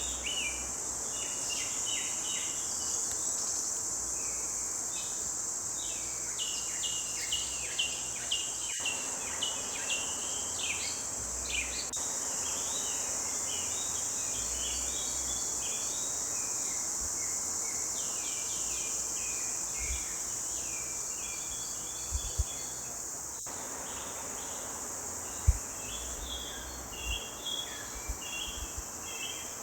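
Forest birds singing: clusters of quick chirps and trills over a steady, high insect buzz. A few low thumps come in the last third.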